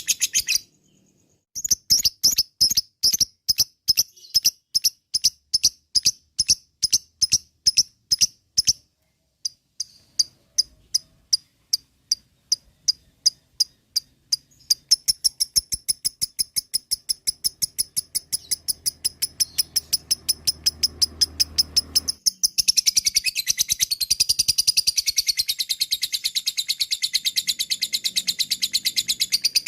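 Lovebird calling in runs of sharp, high, repeated chirps, at first about three a second with a couple of short breaks, then faster. From about two-thirds of the way through it goes into a continuous rapid chatter: the long 'ngekek' call.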